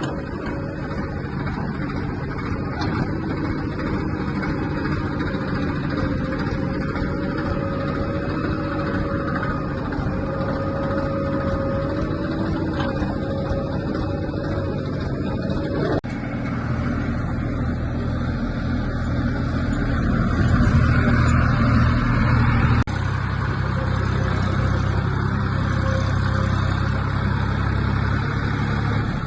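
Backhoe loader's diesel engine running steadily. About halfway through the sound changes abruptly and becomes deeper and louder, and it changes abruptly again later.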